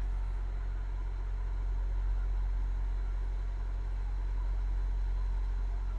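Semi truck's diesel engine idling: a steady low drone that holds even throughout.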